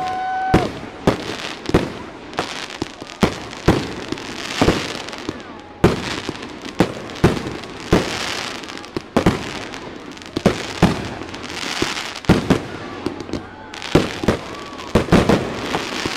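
Aerial fireworks shells bursting in a rapid, irregular series of sharp bangs, often several a second, with crackling between them. A short whistle sounds right at the start.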